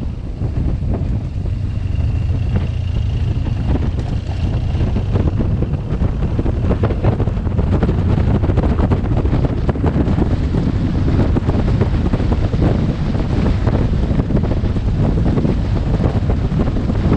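Wind buffeting a helmet-mounted camera's microphone while riding a BMW R 1200 GS motorcycle: a steady, heavy low rumble of wind noise.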